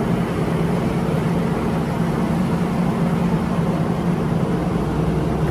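A recorded heavy-engine sound effect for a toy excavator: a steady, loud engine rumble that starts and stops abruptly.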